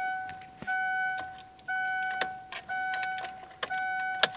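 Car's dashboard warning chime beeping steadily, one pitched tone just under a second long repeating about once a second, with a few sharp clicks in between.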